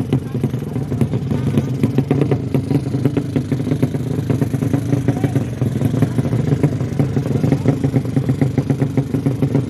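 Motorcycle engines running steadily at a loud level, with many short sharp clicks through it.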